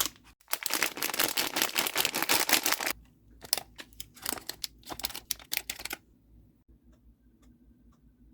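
Small hard sweets poured into a platter, clattering as a dense rattle of clicks for about two and a half seconds, then in shorter handfuls of scattered clicks until about six seconds in, after which only a few faint ticks are left.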